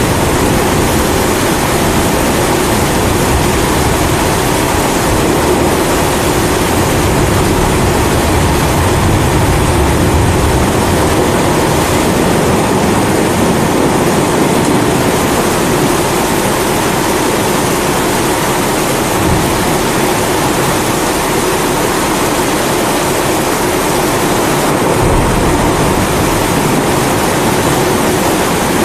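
Pressurized kerosene primus stove burning steadily, mixed with continuous rain. A low rumble swells about eight to eleven seconds in.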